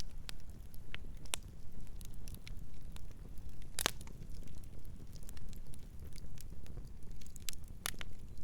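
Campfire crackling: irregular sharp pops and snaps of burning wood over a low steady rumble, with the loudest pop about four seconds in and another strong one near the end.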